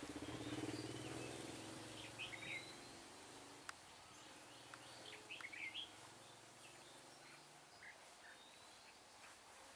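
Faint bird calls: a few clusters of short chirped notes between about two and six seconds in. Under them a low motorbike engine hum fades away.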